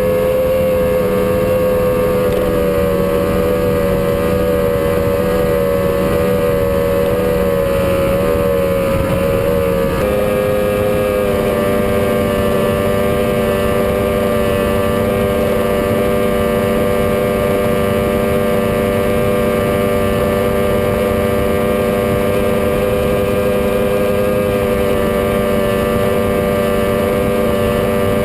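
Powerboat engine running steadily at speed, a continuous drone whose tone shifts slightly once about ten seconds in and then holds.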